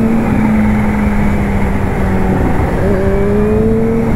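Kawasaki Z H2's supercharged inline-four engine running under way, under loud wind noise. Its note climbs slowly, and a fresh climb begins about three seconds in.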